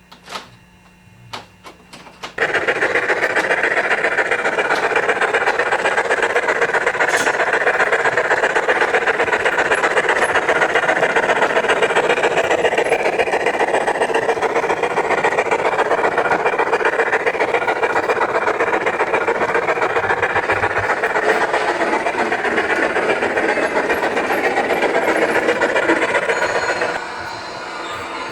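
Model train running close by, a steady rattling rumble of wheels and motor on the track with a fast regular pulse of about four beats a second. It starts suddenly a couple of seconds in and drops away near the end.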